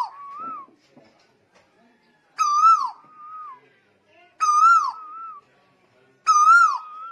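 Lombok tuwu bird calling in a repeated two-part call about every two seconds: a loud, clear note that bends and drops, then a softer trailing note.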